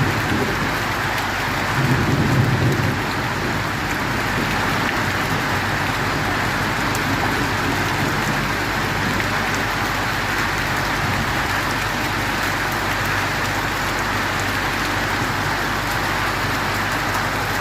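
Heavy rain falling steadily, with a brief low rumble about two seconds in.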